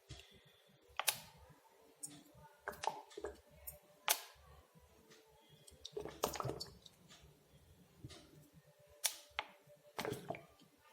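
Sparse, light clicks and knocks, about eight of them irregularly spaced a second or more apart, over near-quiet room tone.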